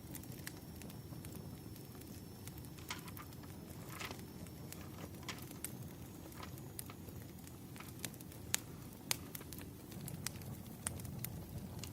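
Wood fire crackling: irregular sharp pops and snaps over a steady low rumble, with two louder pops a little over halfway through.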